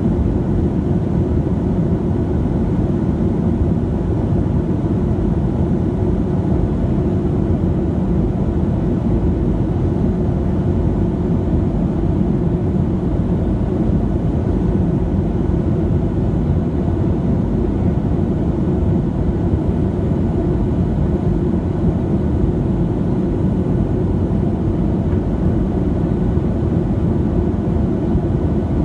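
Steady in-flight cabin noise of a Boeing 737-700: a constant low rush of its CFM56 jet engines and airflow over the fuselage, unchanging throughout.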